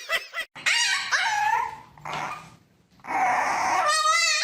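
A pet animal crying out: several pitched cries that bend up and down about a second in, a short hissing noise about two seconds in, then a long wavering cry near the end.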